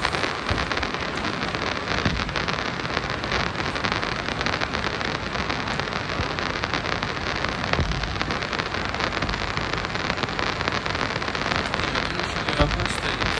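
Moscow Metro "Moskva" (81-765) train running on the track: a steady rattling noise of wheels on rails, with quick small clicks and a few louder knocks over rail joints and points.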